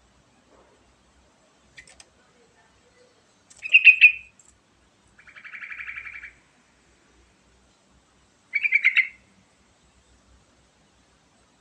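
Yellow-vented bulbul (trucukan) singing in separate short phrases: a loud burst of quick chirping notes about four seconds in, followed at once by a buzzy, rapidly pulsed trill lasting about a second, then another quick burst of chirps near the end.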